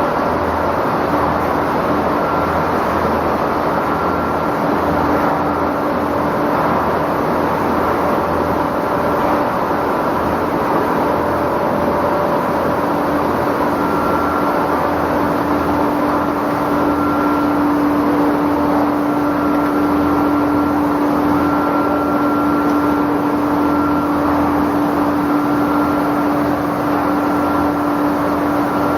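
Egg boiling and peeling production line running: a steady, loud mechanical din with a constant hum and a fainter high tone that comes and goes.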